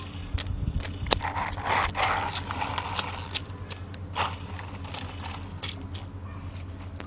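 Plastic toys being handled and pushed about: scattered clicks and knocks, with a scraping rush about one to three seconds in.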